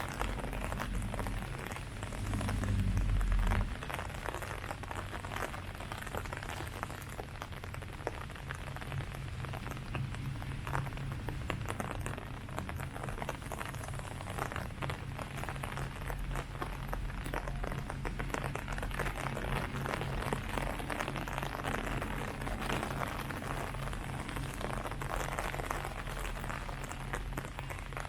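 Steady rain falling on leaves, with the dense patter of many drops. About two seconds in comes a brief, louder low rumble.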